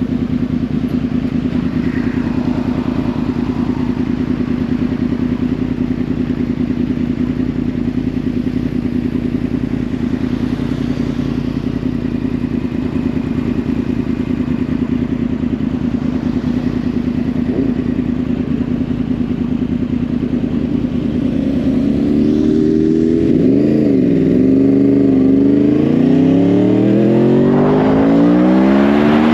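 2010 Yamaha R1's crossplane-crank inline-four through a Yoshimura exhaust, running at a steady cruise for about twenty seconds. It then revs: the pitch dips and climbs, and near the end rises in several quick steps as the bike accelerates through the gears.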